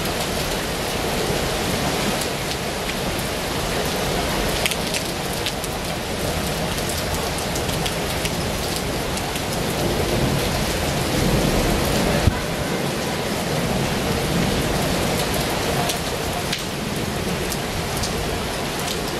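Heavy rain falling steadily, with close drops ticking sharply now and then. A low rumble swells for a couple of seconds past the middle and ends with a sharp tap.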